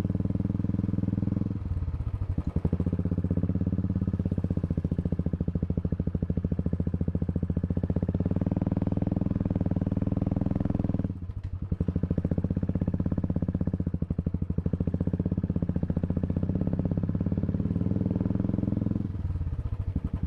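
Motorcycle engine running on the move, a steady, rapidly pulsing engine note that briefly drops about two, eleven and nineteen seconds in.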